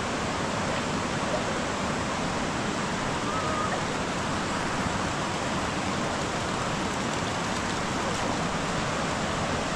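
Steady, even rush of heavy rain and wind.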